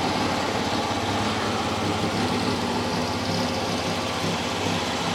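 A 1963 Triumph Herald's four-cylinder engine idling steadily.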